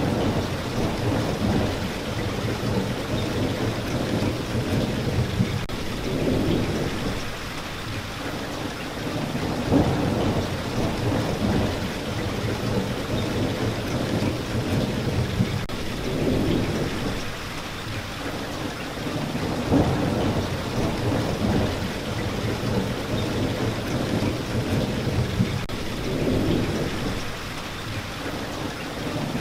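Steady rain with rolling thunder, low rumbles that swell and fade every few seconds beneath the rain.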